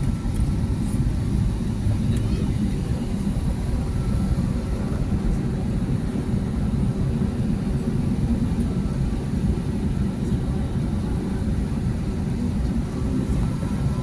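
Steady engine drone and rumble heard inside the passenger cabin of an Airbus A320neo airliner, with a faint constant hum and no sudden changes.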